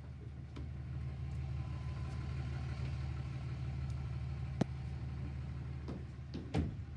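Engine idling with a steady low hum, with a sharp click about halfway through and a short knock near the end.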